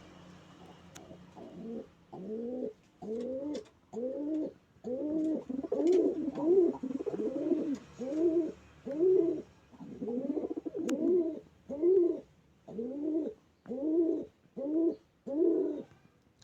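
Domestic pigeon cooing in a long run of repeated coos, about one a second, each rising then falling in pitch. This is the cooing of a pigeon squaring off against a newly arrived pigeon.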